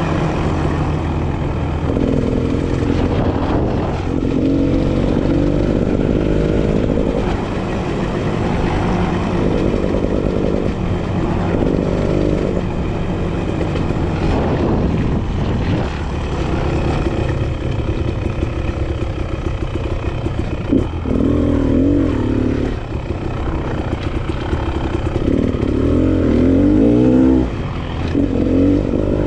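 Enduro dirt bike engine revving up and down as the bike is ridden along a dirt single track, its pitch climbing and dropping again and again, hardest in the last third.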